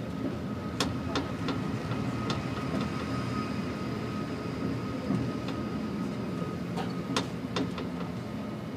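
Passenger train rolling slowly out of a station: a steady low rumble with a thin steady whine over it and scattered sharp clicks and knocks.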